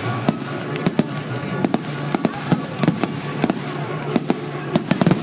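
Fireworks going off in rapid, irregular succession: many sharp bangs and crackles, several a second.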